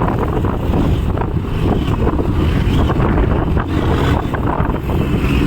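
Wind buffeting the microphone over the rumble of a moving road vehicle, a loud, steady, gusty roar.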